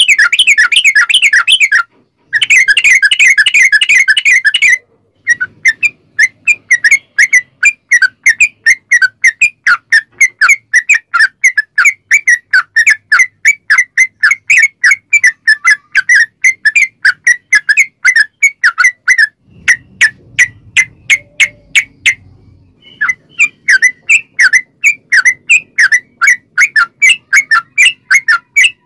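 Yellow-vented bulbul (trucukan) singing in long, rapid strings of short notes, about four to five a second. The notes come in two dense bursts at first, then run on evenly spaced, break off for about three seconds near the two-thirds mark, and start again.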